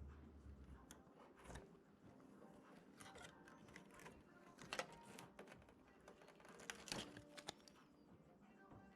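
Faint, scattered clicks and taps of small objects being handled, with a couple of sharper knocks about five and seven seconds in.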